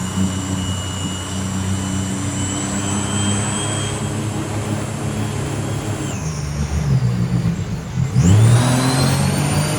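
A 300-horsepower jet boat's engine running hard under load with a high whine, towing on a rope to drag a sunk minivan. About eight seconds in it revs up sharply.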